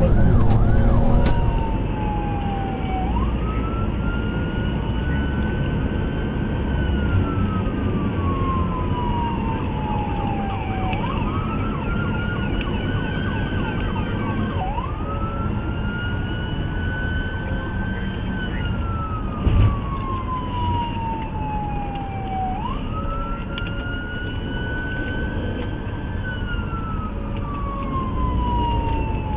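Police car siren on a slow wail: each cycle rises quickly, holds high for a few seconds, then falls slowly, repeating about every 8 s over a steady rumble of engine and road noise. There is one brief knock about two-thirds of the way through.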